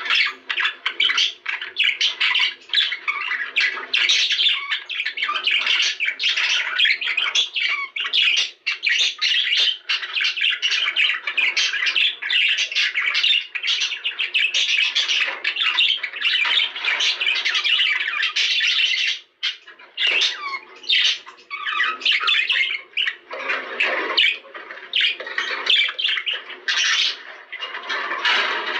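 Budgerigars chattering and squawking continuously in a dense flock chorus, with a brief pause about nineteen seconds in.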